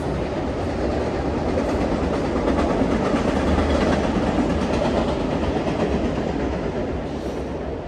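Double-stack container cars of a freight train rolling across a steel trestle: a steady rumble with the clatter of steel wheels, swelling a little in the middle and easing off toward the end.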